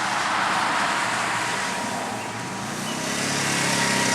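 Small gasoline engine of a pull-behind lawn mower running steadily while cutting grass, with a broad hiss over the engine hum; it grows louder in the last second or so.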